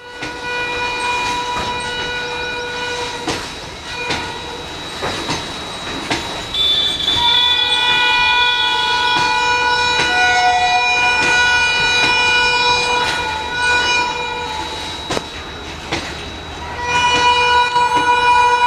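Indian Railways passenger train passing and sounding its horn in long held blasts, with brief breaks, over the steady clicking of its wheels on rail joints.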